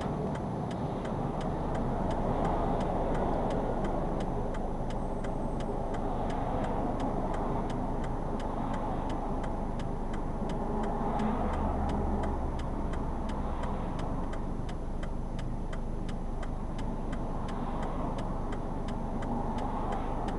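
Subaru Sambar kei vehicle driving, heard from inside the cabin: steady engine and road noise, with a faint, fast, regular ticking throughout.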